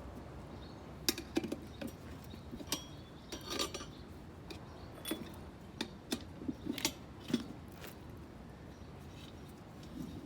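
Irregular light metallic clinks and taps, a dozen or so scattered through, some with a short ring: hand tools and metal parts being handled during motorcycle tube-tire work.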